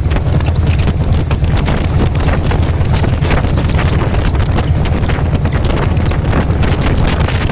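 Meter-gauge passenger train running at speed: a steady rumble with a dense run of wheel clicks and clatter over the rails, and wind buffeting the microphone.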